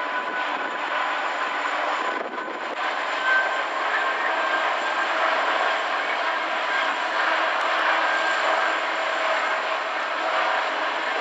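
Class 66 diesel locomotive working under load as it hauls a long train of hopper wagons, a steady distant running sound with faint humming tones. The EMD two-stroke diesel engine is heard over the rumble of the wagons.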